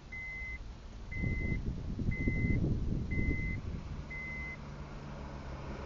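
A 2004 Acura RSX's K-series four-cylinder engine cranks for about two and a half seconds, catches and settles into a steady idle, while a beep sounds about once a second, five times, stopping as the engine runs.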